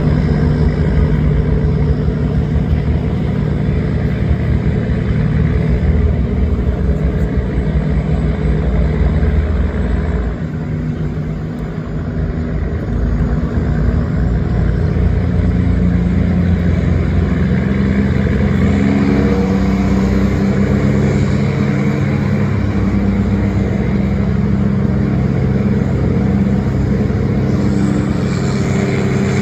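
Tugboat engine running continuously while towing laden barges. It dips briefly about ten seconds in, then runs on steadily.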